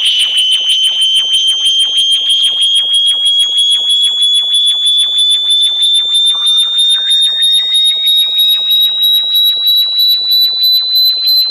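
Synthesized high-pitched electronic tone of the kind sold as a bat repellent. It pulses several times a second and slowly rises in pitch. About halfway through, a fainter second tone begins sliding upward beneath it.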